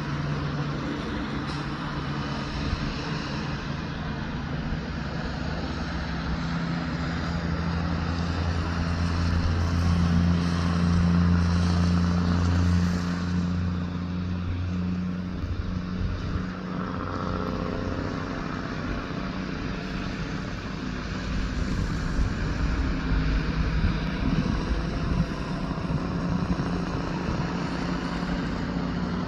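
Heavy truck engine running with a steady low drone that swells about ten seconds in and eases off, then a deeper rumble builds again near the end.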